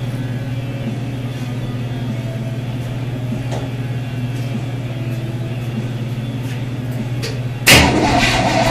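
Steady low drone of the 1936 Ford rat rod's engine being cranked over. Near the end it suddenly gets much louder as the engine fires on its first start.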